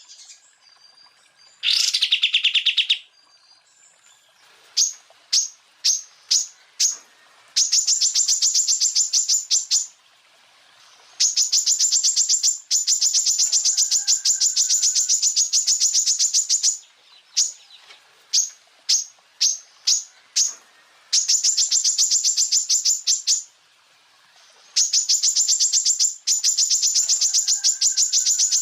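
Greater green leafbird (cucak ijo) singing in 'tembakan' style: rapid, high-pitched rattling trills in runs of one to several seconds, with short single notes between the runs and one lower-pitched trill about two seconds in.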